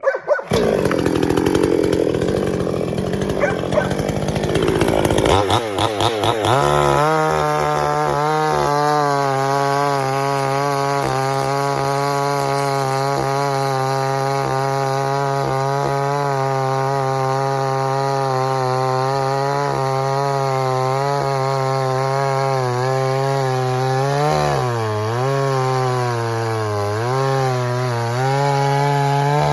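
Pinkway 63cc two-stroke chainsaw running at full throttle, cutting into a large log. It sounds ragged for the first few seconds, then holds a steady high engine note, and near the end the pitch dips briefly twice as it bogs in the cut. The saw still has its out-of-the-box chain grind, which the owner says is cutting oddly in big wood.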